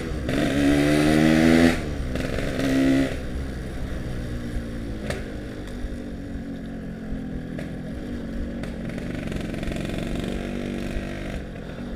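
Yamaha RX-King's two-stroke single-cylinder engine under way. It pulls with rising pitch for the first couple of seconds, drops back, then runs on steadily and more quietly.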